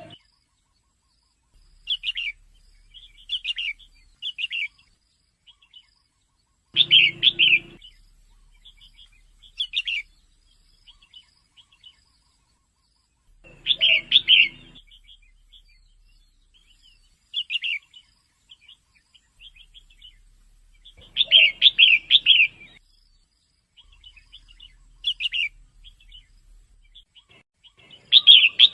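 Female red-whiskered bulbul calling in short chirping phrases: a louder burst of chirps about every seven seconds, with softer scattered notes between.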